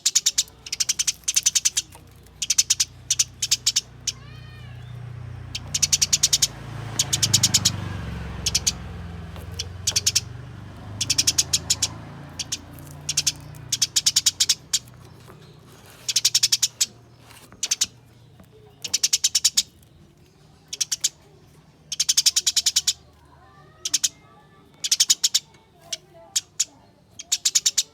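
Eurasian tree sparrows giving rapid, rolling chatter in short fast bursts every second or two: the aggressive calls of sparrows fighting. A low rumble swells and fades underneath from about four to twelve seconds in.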